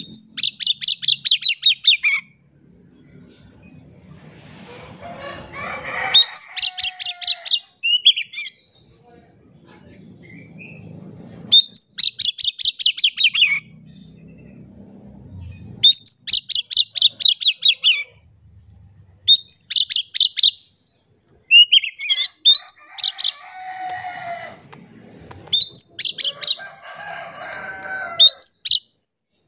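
Oriental magpie-robin (kacer) singing in repeated bursts of rapid, sharp, high notes. Each burst lasts about two seconds and comes every few seconds, with softer, lower calls in between.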